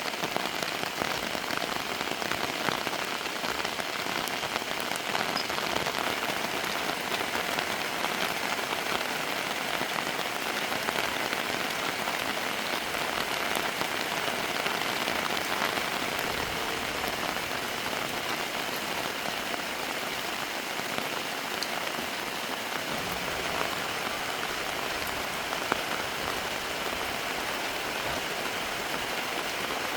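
Steady rain falling, an even hiss. A low rumble joins in toward the end.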